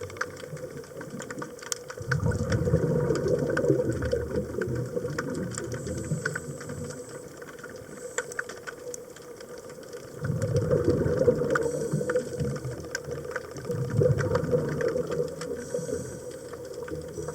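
Scuba diver's regulator breathing heard underwater: long rushes of exhaled bubbles starting about two seconds and ten seconds in, with a fainter inhalation hiss between them, over a bed of faint fine crackling clicks.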